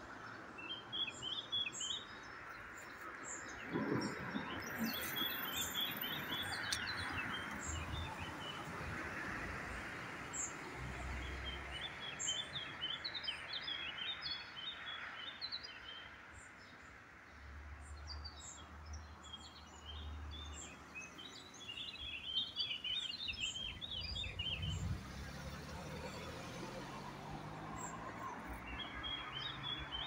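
Small songbirds chirping and twittering in busy clusters over a steady background hiss. A low drone rises in pitch over the last few seconds.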